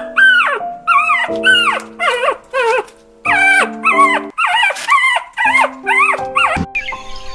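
Dog whimpering and yelping: a quick series of short, high whines that rise and fall, pausing briefly about three seconds in, over background music.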